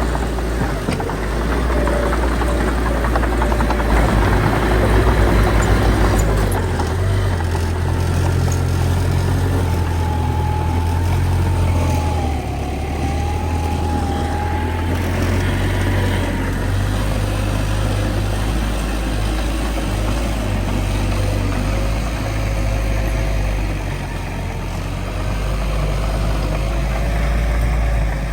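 Heavy diesel engine of a bulldozer running steadily as it works soil, a deep continuous rumble. A thin wavering whine rises over it in the middle and fades out.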